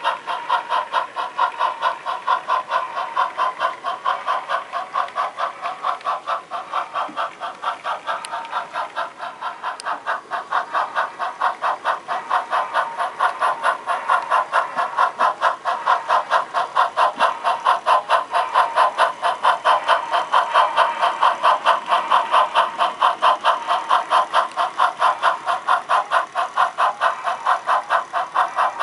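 Sound-equipped HO scale model steam locomotive chuffing steadily as it runs, about three chuffs a second.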